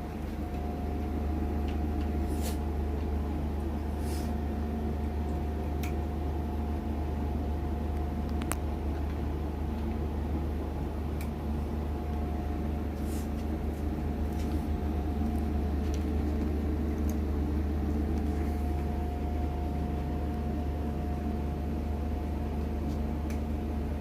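Steady low mechanical hum with a faint steady whine above it and a few faint clicks scattered through.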